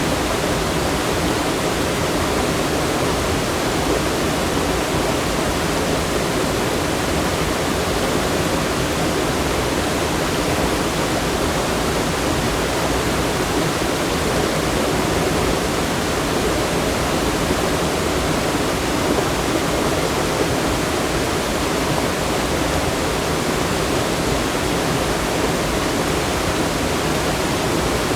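Rushing water from a waterfall or fast stream, a steady, unbroken rush.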